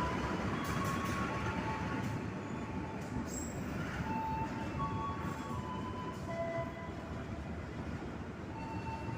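Train running on the rails: a steady rumble that slowly fades, with short high tones now and then.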